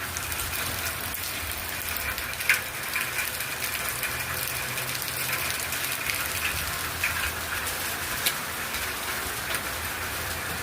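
Heavy rain pouring down steadily, with scattered sharp taps of individual drops striking hard surfaces.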